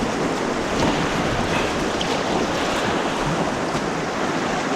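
Steady rush of white water on an artificial slalom course, with some wind buffeting the microphone.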